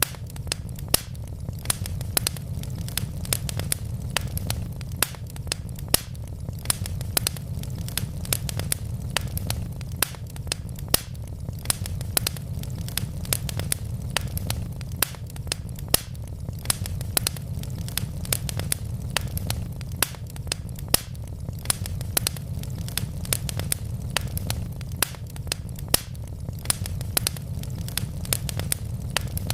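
Wood logs burning in a fireplace: dense, irregular crackling and sharp pops, several a second with the occasional louder snap, over a steady low rumble of the flames.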